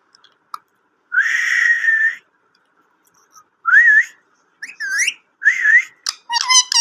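Pet parrot whistling: one long whistle about a second in, then a run of short rising-and-falling whistled notes with a raspy edge, coming faster near the end.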